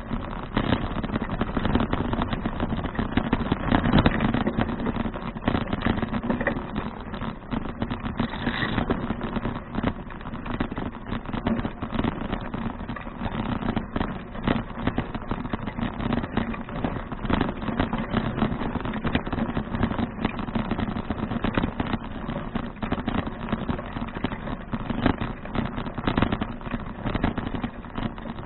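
Riding noise from a 2012 Fuji Touring bicycle recorded on an action camera: wind rushing over the microphone under a constant clatter of small knocks and rattles from the bike rolling over an uneven surface.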